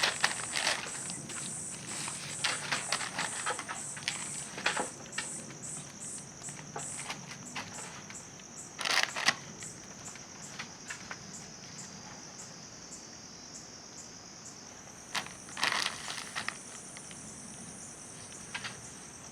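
Steady high insect chirring, like crickets, with scattered small clicks and two short, louder noisy sounds about nine and sixteen seconds in.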